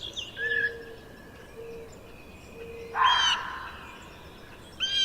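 Red fox giving a harsh, hoarse call about three seconds in, with another beginning near the end. The call is rough enough to resemble a white-tailed deer snort; it is probably a vixen looking for a mate.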